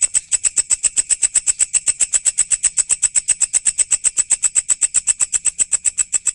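Walang, a singing grasshopper, stridulating in a fast, even train of high, sharp chirps, about eight a second.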